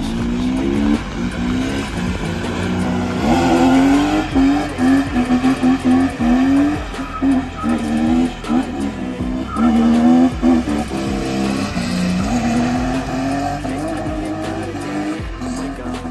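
A drift car's engine revving up and dropping back again and again in short rising sweeps as the car slides around on wet asphalt.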